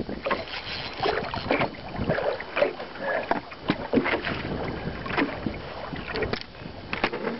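Water lapping and slapping against the hull of a small fishing boat, in irregular knocks and splashes.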